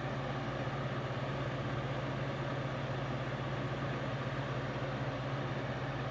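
Early-1990s Capehart 40-pint dehumidifier running steadily: its fan blowing air over a constant low hum.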